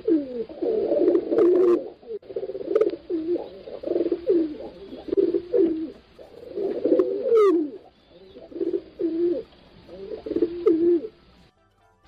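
Pigeons cooing, one low coo phrase after another, with several calls overlapping. A brief high rising whistle sounds about seven seconds in.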